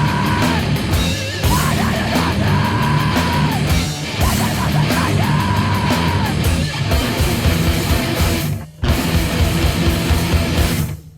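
Loud, heavy rock band music: distorted guitars and drums, with long held high notes that bend at their ends. There are two brief breaks in the playing, one about two-thirds of the way in and one at the end.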